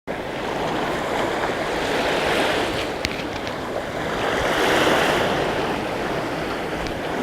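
Sea waves washing and rushing, swelling up and easing off twice.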